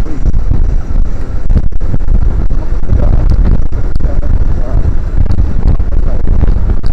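Wind buffeting a body-worn action camera's microphone on a moving motorcycle, a loud, dense rumble over the motorcycle's engine and road noise.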